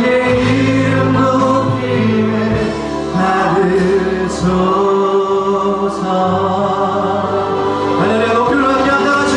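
Christian worship song sung by a group of voices with instrumental accompaniment, held sung notes over a steady bass.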